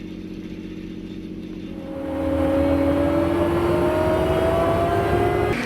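An engine running with a steady hum, then louder about two seconds in, its whine slowly rising in pitch as it speeds up, cut off suddenly near the end.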